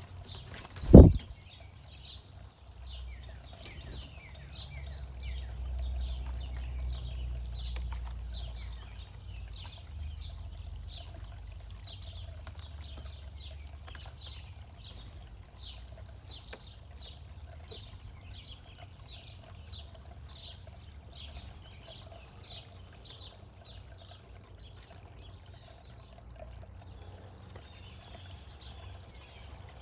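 A backyard songbird calling over and over in short, high, downslurred notes, about two a second, which fade out near the end. About a second in there is a single loud, low thump, and a low rumble runs underneath.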